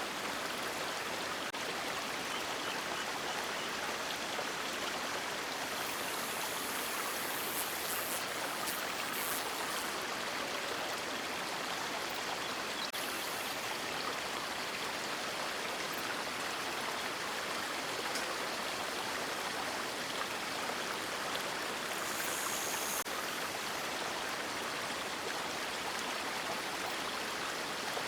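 River water flowing in a steady, even rush, with a couple of brief higher hissing patches.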